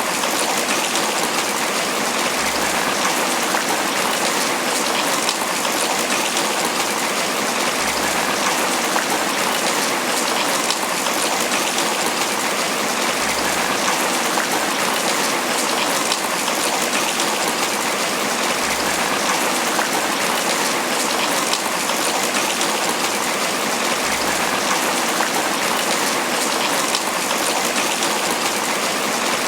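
Tropical rain falling steadily on banana leaves, a dense, even patter of drops. A faint low bump recurs about every five and a half seconds.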